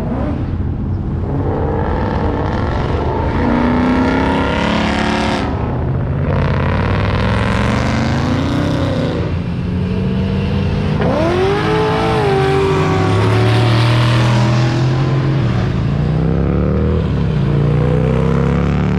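Car engines revving and accelerating past, their pitch rising and falling several times over a steady low exhaust rumble. One sharp rising rev comes about halfway through.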